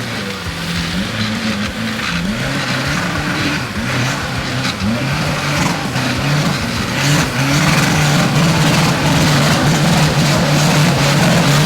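Suzuki Jimny's engine revving hard under load as it climbs a muddy hill, the revs rising and falling repeatedly. It grows louder in the second half.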